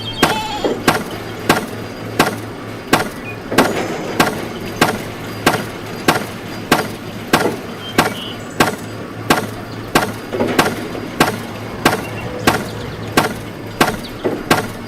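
Evenly spaced sharp knocks, about three every two seconds, like chopping or whacking strikes, over a steady low hum.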